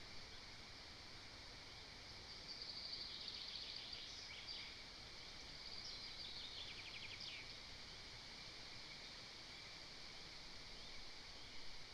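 Faint songbird song: two short high phrases a few seconds apart, the second ending in a quick trill, over a steady background hiss.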